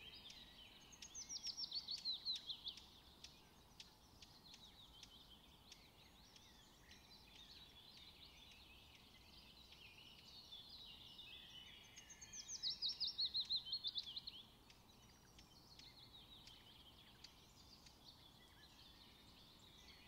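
A songbird singing twice, each song a fast run of short sweeping notes lasting about two seconds and falling in pitch, the first about a second in and the second around twelve seconds, with scattered faint chirps between.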